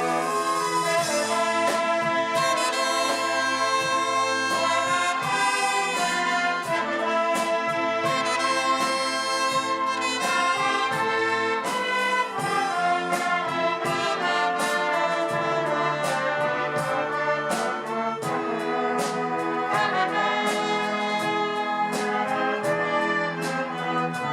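Wind band music led by trumpets and trombones, playing full chords with a steady run of percussion strikes.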